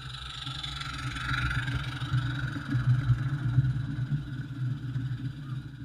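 Low, steady mechanical rumble of a running engine, growing louder over the first couple of seconds and then holding.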